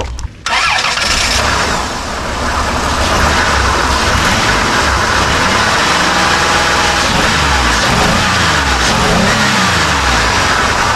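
A 2002 Chrysler Town & Country's V6 engine starting and running, heard close up; the sound comes in suddenly about half a second in. With a new ignition coil fitted it idles smoothly on all six cylinders, the earlier single-cylinder misfire gone.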